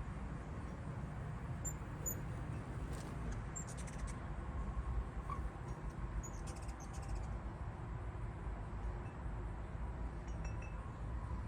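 Hummingbirds giving scattered, very short, high chip notes, with two quick bursts of rapid chattering about three and six and a half seconds in, over a low steady background rumble.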